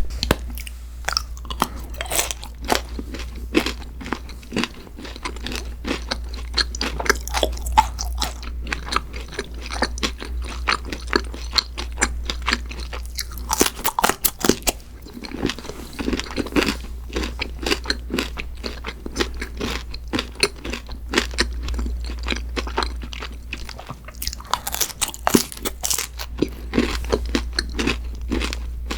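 Close-miked eating: a person biting and chewing something crunchy, with a dense run of crisp crunches throughout, over a low steady hum.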